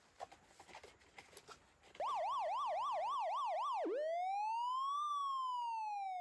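Faint scattered clicks and taps, then about two seconds in an electronic police-style siren starts suddenly and loud. It runs a fast yelp of about four sweeps a second, then switches to a slow wail that rises and falls.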